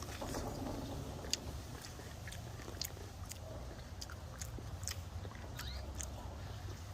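A person biting and chewing cooked corn on the cob, with irregular small clicks and crunches of the kernels, quiet over a low steady hum.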